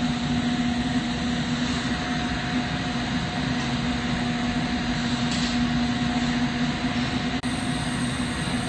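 Steady roar of a lampworking hot shop: glassblowing torch flames and ventilation running together, with a constant low hum underneath.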